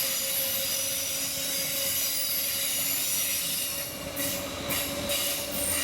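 Steam-hauled train rolling along, its wheels squealing on the rails in a steady high-pitched squeal over a low rumble. About four seconds in, the squeal breaks off and returns several times.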